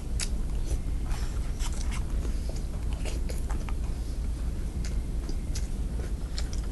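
A person eating cereal: irregular small crunches and clicks of chewing, over a steady low hum.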